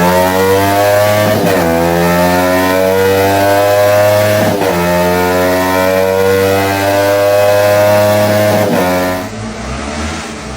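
Sport motorcycle engine accelerating hard through the gears. Its pitch climbs steadily and dips briefly at each of three upshifts, about one and a half, four and a half and eight and a half seconds in. Near the end it gives way to a quieter engine sound.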